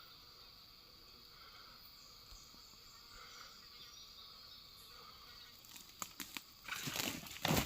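Faint forest ambience with a steady insect-like hum. About six seconds in come a few clicks, then a louder run of rustling and crackling near the end.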